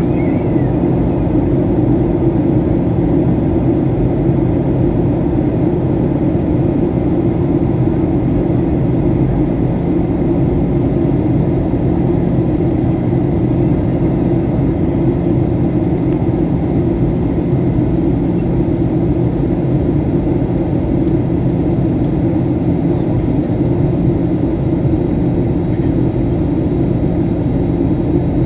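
Jet airliner's engines and airflow, a steady low drone as heard inside the cabin, with no change in pitch or level.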